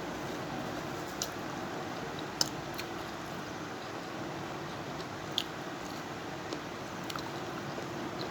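Close-up eating sounds: chewing and biting food, with a few sharp crisp clicks, the loudest about two and a half and five and a half seconds in. Under it runs a steady hiss of light rain.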